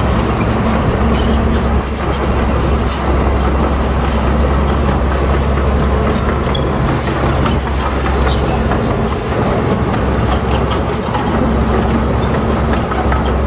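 Crawler bulldozer's heavy diesel engine running steadily, with scattered clanks from its steel tracks.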